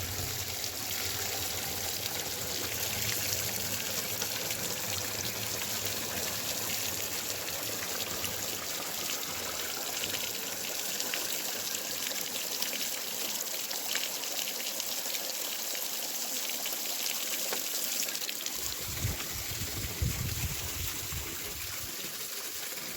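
Spring water pouring steadily from an old borehole outlet and splashing as it fills a hand-held bottle.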